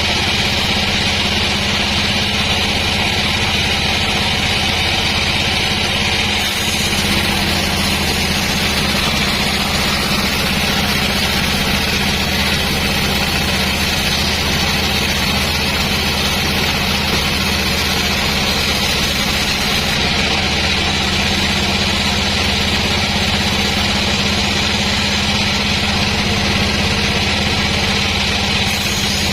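Sawmill machinery running steadily: a continuous engine-like hum with a high hiss above it, which shifts slightly about six seconds in and again about twenty seconds in.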